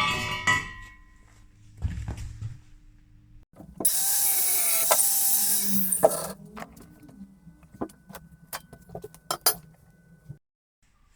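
A power tool runs loudly for about two and a half seconds, starting a few seconds in, during metalwork on a steel frame. It is followed by a series of sharp metal clicks and knocks.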